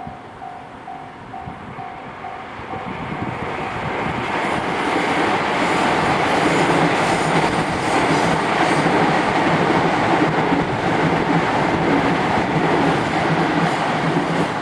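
A Japanese level-crossing warning bell sounds as an electronic tone on a steady beat of about two a second. From about three seconds in, a train passing over the crossing builds to a loud rumble with wheel clatter on the rails and drowns out the bell.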